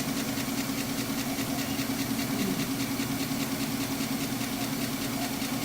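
Crankshaft grinding machine running with a steady hum, its grinding wheel spinning clear of the crank journal before any grinding begins.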